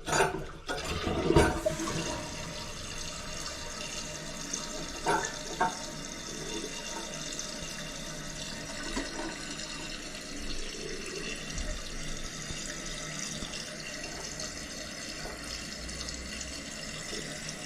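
Toilet flushed, with a louder rush of water in the first couple of seconds, then the tank refilling through the fill valve with a steady hiss of running water. It is a test flush after a flush-valve repair on a running toilet.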